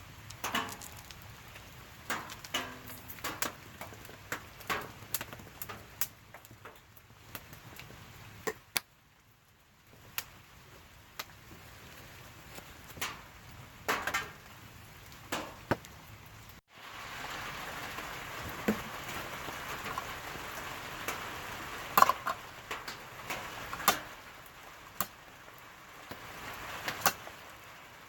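Rain pattering, with scattered sharp clicks and knocks from drops and handling. After a sudden cut about two-thirds of the way through, a steadier, louder hiss of rain or campfire carries on, still with the odd click.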